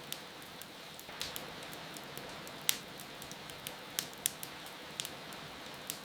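Steady rain hiss with a wood fire crackling over it: scattered sharp pops and snaps, the loudest a little before the middle and again about two-thirds of the way through.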